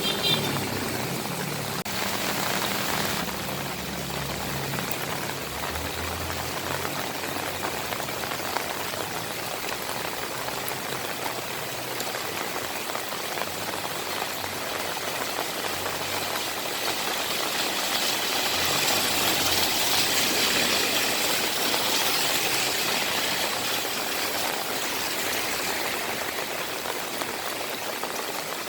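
Steady rain falling, an even hiss. A low engine hum runs underneath for the first few seconds and then fades. The rain grows louder for a few seconds past the middle.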